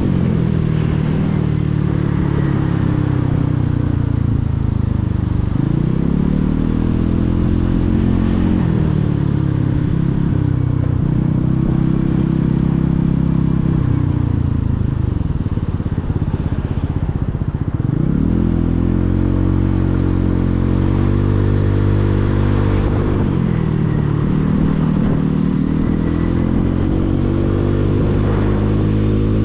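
Motorcycle engine heard from the rider's seat, its pitch climbing as it accelerates and falling away as it eases off or changes gear, several times over, with steady wind and road noise underneath.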